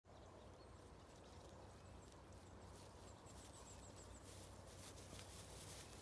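Faint, high-pitched birdsong: a quick run of short, thin notes about halfway through over quiet rural background noise, with light rustling near the end.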